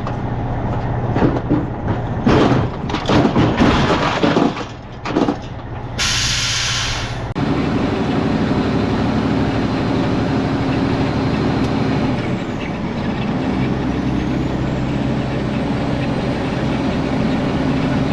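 Irregular scuffing and knocking for a few seconds, then a semi truck's air brakes letting out a hiss of air for about a second and a half, followed by the truck's diesel engine running steadily.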